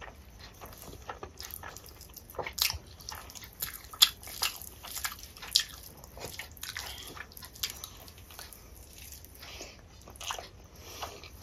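Close-miked eating sounds: wet chewing and lip smacks as a mouthful of rice and cabbage curry is eaten by hand, a string of short sharp clicks and smacks, the loudest about four seconds in.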